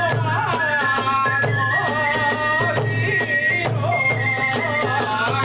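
Kagura hayashi accompaniment: a high bamboo flute melody over quick, continuous drum beats and the rapid clash of small hand cymbals.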